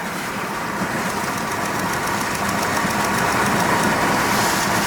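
Steady engine and road noise heard inside a moving car's cabin, slowly growing louder.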